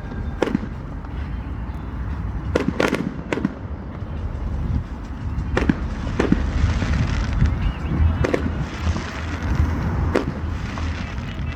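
Fireworks display: aerial shells bursting in a string of sharp bangs, several in quick succession about three seconds in, with a spell of crackling from about six seconds in.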